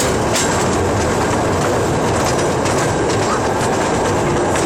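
Train running on the rails: a steady loud rumble and rattle with a few sharp clicks from the wheels and faint short squeals.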